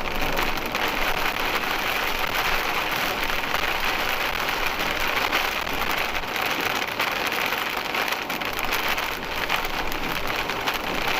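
Heavy rain pelting a motorhome's windshield, heard from inside the cab: a dense, steady patter of drops.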